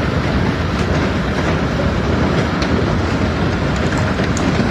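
Loud, steady rushing noise of a monsoon storm, with a few faint ticks over it.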